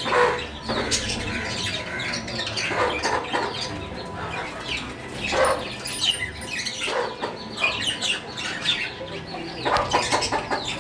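Small pet parrots kept as lovebirds, chirping and squawking. Their short, sharp calls come one after another and overlap, many of them sliding down in pitch.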